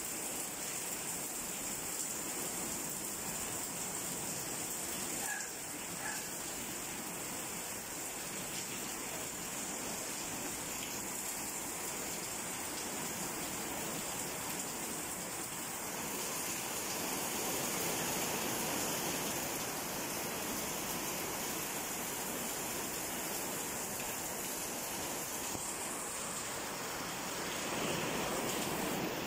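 Steady rain falling, a constant even hiss that swells slightly about two-thirds of the way in.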